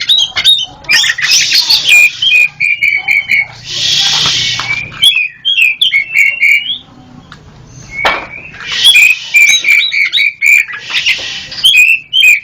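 Black-breasted Javan oriental magpie-robin (kacer) singing loudly. It gives rapid strings of short whistled notes and trills mixed with harsh rasping bursts, with a brief lull around the middle.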